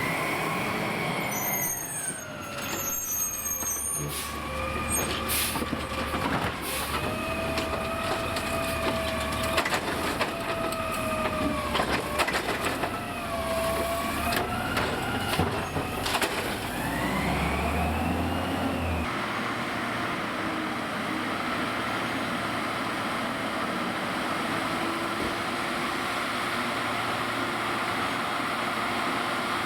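Autocar New Way side-loader garbage truck's diesel engine revving up and down as it powers the hydraulic arm that dumps a recycling cart, with sharp knocks of the cart slamming. About 19 seconds in the revving stops and the truck settles into a steady run.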